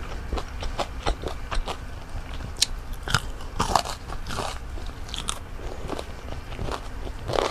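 Close-up crunching and chewing of crispy breaded fried calamari: irregular sharp crunches, loudest in a cluster about halfway through.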